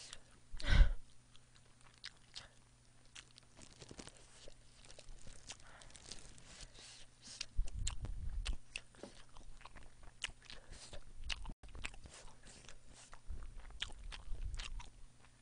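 Close-miked chewing of a rice ball, with many small mouth clicks. A sharp thump comes about a second in, and low bumps follow around the middle and near the end.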